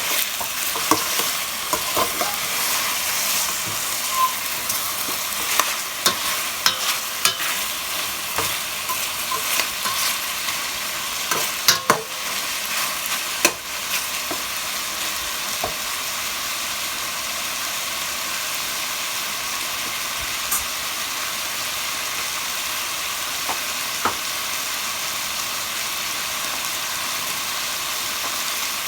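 Chicken pieces frying in oil in a pot with a steady sizzle as they brown and give off their fat. Scattered clicks and knocks of a utensil stirring against the pot fall in roughly the first half, then only the sizzle continues.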